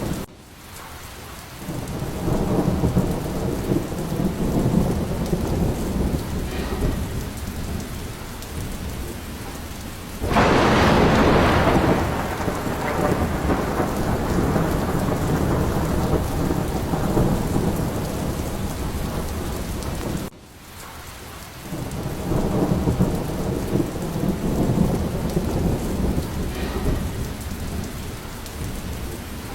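Heavy rain falling steadily with thunder rumbling through it. A sudden loud crack of thunder comes about ten seconds in and rolls off slowly, and another begins right at the end.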